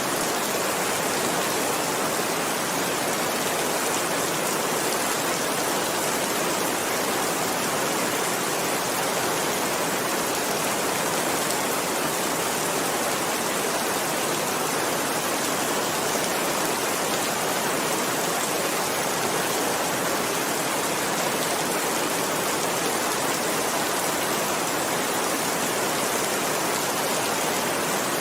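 Steady rainfall, an even, unbroken hiss of rain with no separate crackles or thunder standing out.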